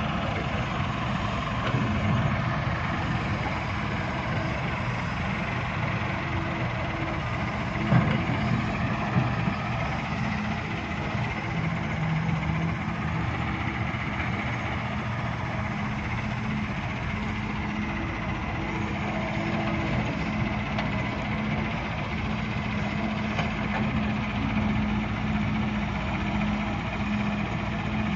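Heavy diesel machinery engine running steadily, with a couple of sharp knocks about a third of the way in.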